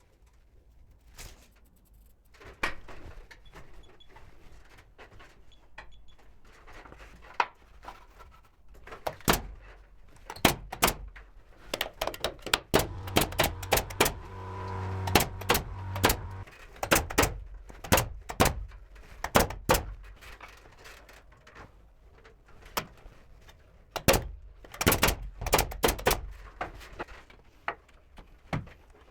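Woodworking on boards: a run of sharp knocks and bangs in irregular clusters, with a steady machine hum for a few seconds near the middle.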